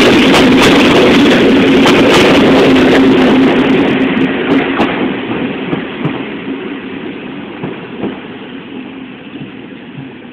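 Passenger train running past close at speed: a loud steady hum with sharp clicks from the wheels on the rails, fading steadily from about four seconds in as the train pulls away.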